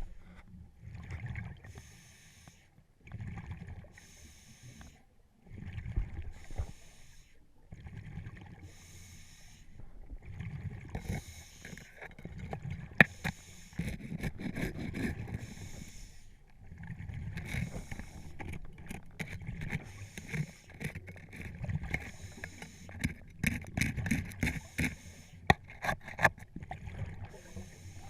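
Scuba regulator breathing heard underwater: a hissing breath and a gush of exhaled bubbles come every couple of seconds. They grow more continuous in the second half, with sharp clicks and knocks.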